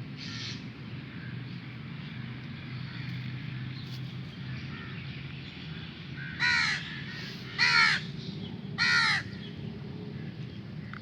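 A crow cawing: one call at the start, then three louder harsh caws about a second apart past the middle, over a steady low background hum.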